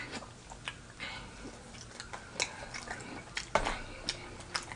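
Close-miked chewing of a sandwich: irregular wet mouth smacks and clicks, the loudest a little past halfway.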